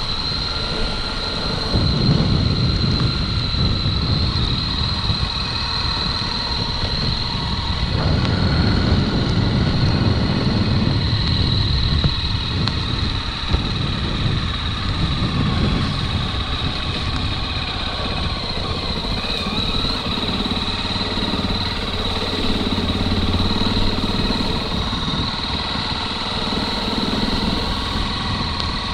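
Motorcycle engine running at riding speed on a dirt road, its low rumble swelling and easing every few seconds, with a steady high-pitched tone above it.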